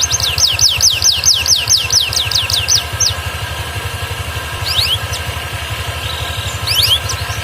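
Canary singing a trill of repeated high, quickly falling notes, about four a second, that breaks off about three seconds in, with a few single notes later. The bird had gone off song and is starting to sing again. A steady low hum runs underneath.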